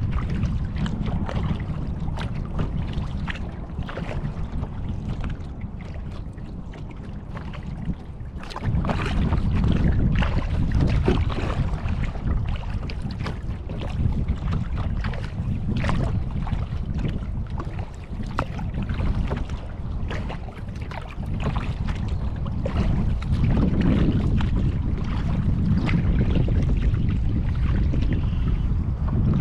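Wind buffeting a GoPro's microphone in a low rumble, with many short splashes and drips of a kayak paddle in the water.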